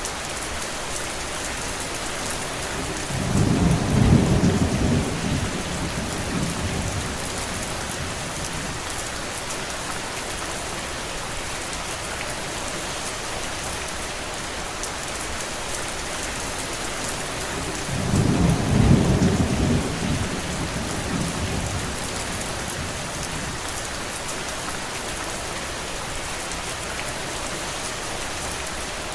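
Steady rain hissing, with two low rolls of thunder that swell and fade, one about three seconds in and another about fifteen seconds later.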